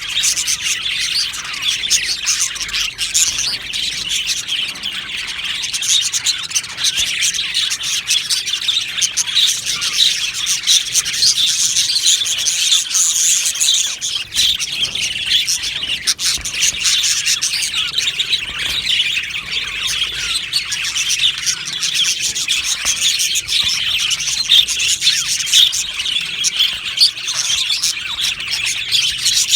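A colony of budgerigars chirping and chattering together: many high, overlapping calls in a continuous warble, with no pause.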